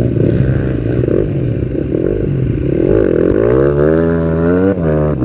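Trail motorcycle engine running under throttle, revving up in a steady rising pitch from about three seconds in, then dropping off sharply just before the end.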